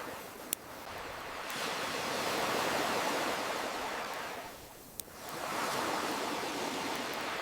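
Ocean waves washing in and drawing back in slow swells, with single sharp pops from a wood fire crackling, about half a second in and again near five seconds.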